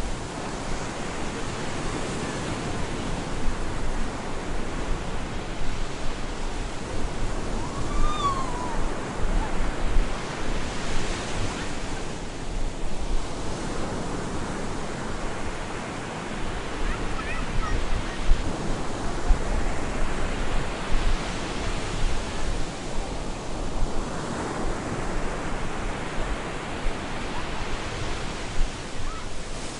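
Stormy sea surf breaking on a beach, a continuous rush of water that swells and ebbs every few seconds as waves come in and wash back.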